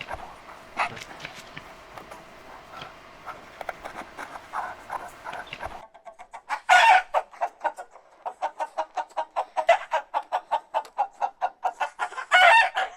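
Chickens clucking, faintly at first. After a cut, a hen cackles: a loud squawk, then a fast run of short clucks at about six a second, then another loud squawk near the end.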